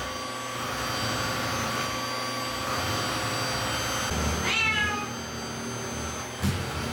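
A domestic cat meows once, a rising-then-falling call about four seconds in, over a steady background noise. There is a short knock near the end.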